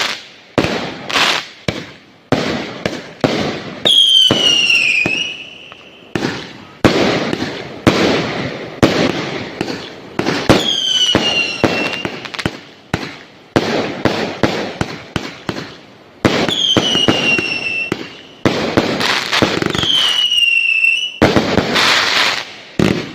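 Fireworks going off one after another: a steady run of sharp bangs, each fading quickly, with four whistles falling in pitch spread through the stretch.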